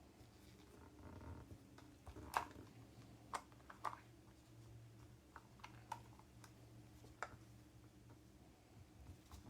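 Near silence over a low steady hum, broken by about six faint, scattered light taps and clicks from hands handling small objects.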